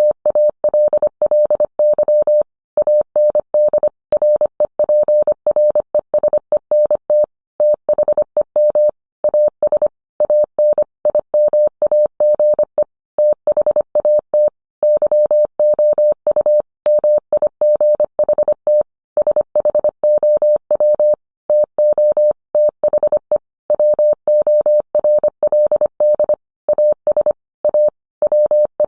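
Morse code sent as a steady, single-pitched beep of about 600 Hz, keyed on and off in short dits and longer dahs, with longer pauses between characters and words.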